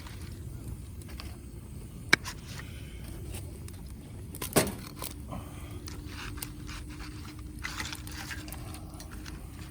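Wood fire burning in a fire pit: a low steady rumble with scattered crackles and sharp pops, the loudest pops about two seconds and four and a half seconds in.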